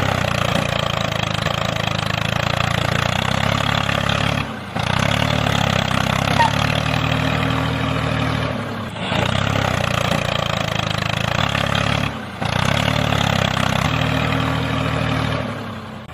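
A small motor running steadily, with three short breaks: a little over four, nine and twelve seconds in.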